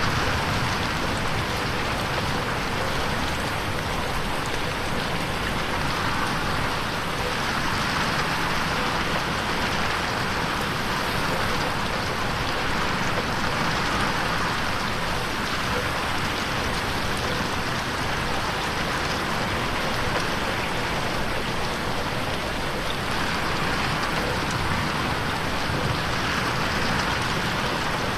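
Steady rain beating on a window pane, an even hiss of drops without a break.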